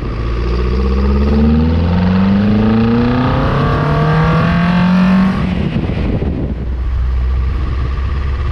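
NC Mazda Miata's built 2.55-litre four-cylinder on BBR individual throttle bodies accelerating through the gears: the engine note climbs in pitch, drops back at each upshift and climbs again. About five seconds in the driver lifts off and the engine settles to a steady, lower cruise.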